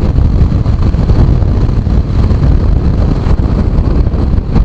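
Loud wind rumble buffeting the microphone on a moving motorcycle, with road and engine noise underneath.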